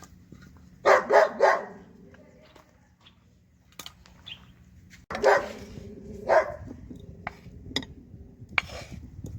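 A dog barking: a quick run of three barks about a second in, then more single barks a few seconds later.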